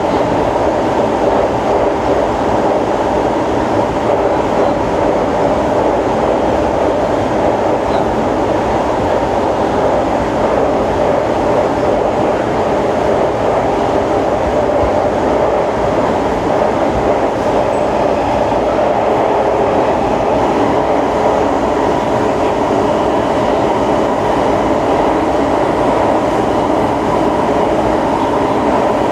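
Siemens C651 metro train running at a steady speed, heard from inside the car: a constant rumble of wheels on the rails, mixed with the traction drive's running noise.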